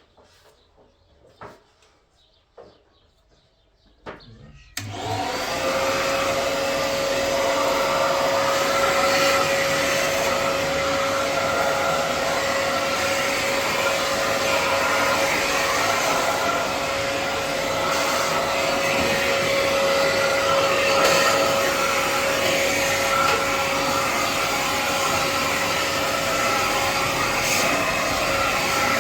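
An electric motor is switched on about five seconds in, spins up within a moment, and then runs loudly and steadily with a constant whine over a wide rush of noise. A few faint knocks come before it.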